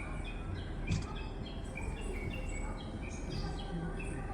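Many short, high bird chirps and tweets repeating over a steady low background noise, with a single sharp click about a second in.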